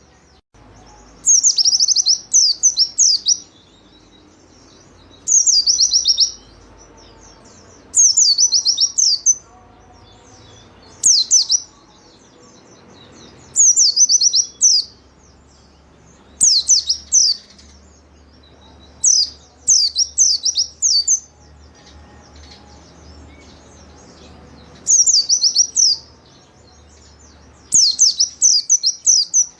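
White-eye (pleci) singing in short, rapid phrases of high, quickly falling chirps, a phrase every two to three seconds.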